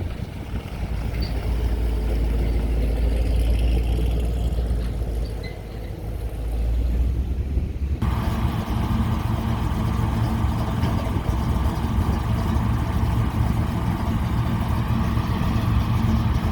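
Wind rumbling on the microphone over vehicle noise, then, after an abrupt change about halfway through, a car engine running steadily with a low hum.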